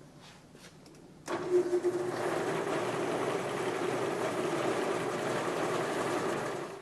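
Metal-cutting bandsaw switched on in high range: a few faint clicks, then about a second in the motor and blade start up and run steadily at the fast blade speed. The sound cuts off abruptly at the end.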